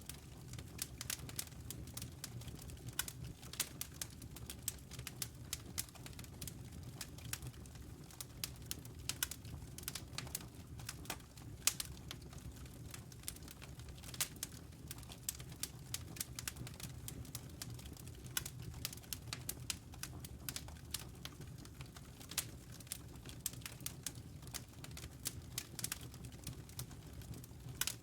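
Wood fire crackling: many small sharp pops and snaps at irregular, rapid intervals over a steady low rumble of the burning logs.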